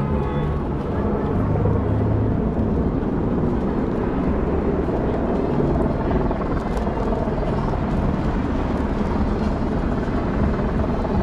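Steady downtown street ambience: a continuous low mechanical rumble with no clear breaks.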